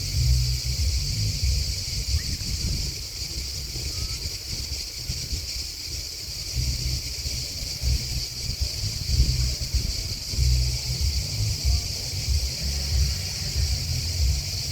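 A steady, high-pitched chorus of chirping insects, grasshoppers or crickets, that does not let up. Under it runs an uneven low rumble that swells and fades every few seconds.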